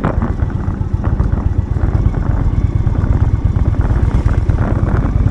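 Motorcycle engine running steadily under way, a dense low rumble that stays even throughout.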